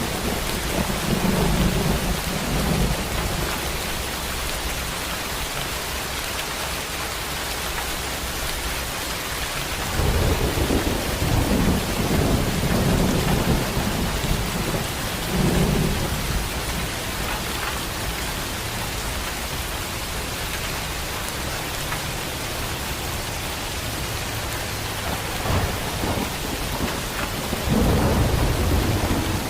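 Heavy rain pouring steadily, with rolling thunder rumbling low at the start, again for several seconds about a third of the way in, and once more near the end.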